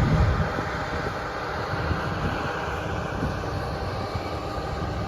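Heavy harvest machinery, combines and tracked tractors, running steadily: a low rumble under an even rushing hiss.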